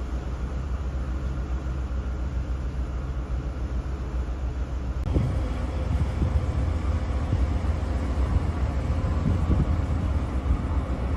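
Steady low rumble of a ship under way, with wind buffeting the microphone. The sound changes abruptly about five seconds in, after which gusty low thumps come and go.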